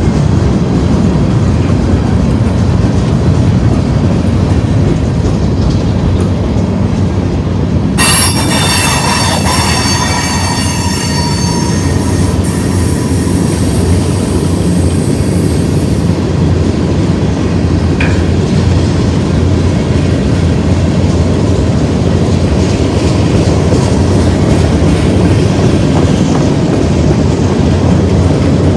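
Freight train cars rolling past with a steady heavy rumble of wheels on rail. About eight seconds in, a high-pitched squeal of wheel flanges on the rail rises over the rumble, lasts about eight seconds and then drops away.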